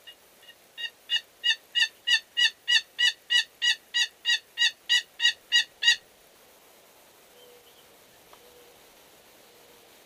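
A long, steady series of turkey yelps: about seventeen evenly spaced yelps, roughly three a second, ending abruptly about six seconds in.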